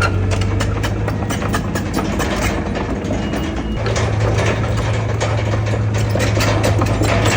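Heavy diesel earthmoving machine running, with frequent sharp metallic clanks and rattles over the engine. The engine note drops off a little under three seconds in and comes back strongly about a second later.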